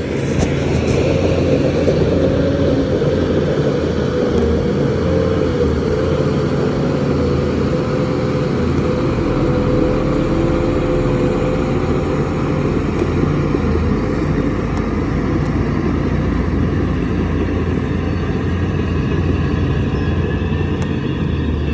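Heavy construction machine's diesel engine running steadily, with a wavering drone above its low rumble.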